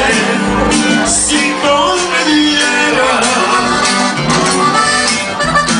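Band music with an accordion carrying the melody over a steady rhythm, in a Latin American style.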